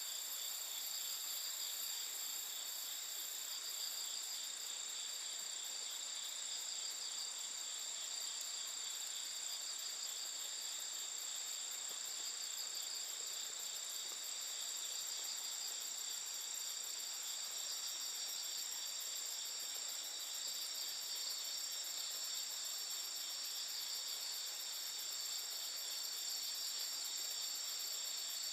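Night chorus of crickets and other insects: several steady high-pitched chirring songs overlap with fast pulsing trills. A thin, higher steady tone joins about halfway.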